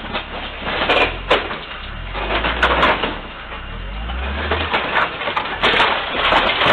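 Vehicle crash on dashcam audio: a run of sharp knocks and crunching impacts over a low engine and road rumble, the densest cluster near the end.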